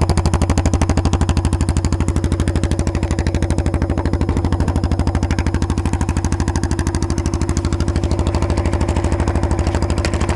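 Lawn tractor engine running through a short 1-inch straight pipe with no muffler, firing steadily as a rapid, even train of exhaust pops. It is on choke just after a cold start.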